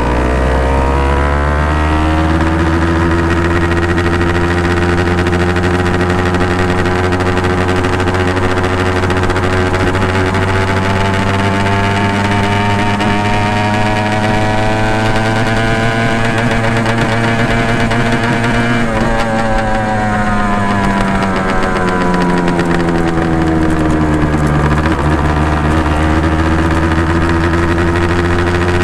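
Honda NSR250 MC21's two-stroke V-twin running through Dog Fight Racing expansion chambers. The exhaust note climbs at the start and then drifts slowly up and down. It falls away about two-thirds of the way through, dips once more and climbs again near the end.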